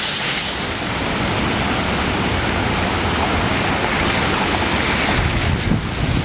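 Heavy thunderstorm rain, a loud steady hiss, with a low rumble rising near the end.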